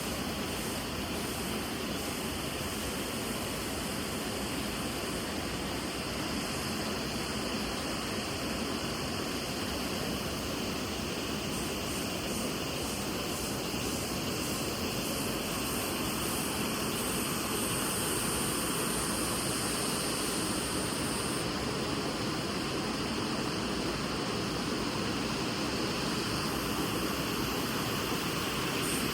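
Mountain river rushing over rocks: a steady, unbroken water noise.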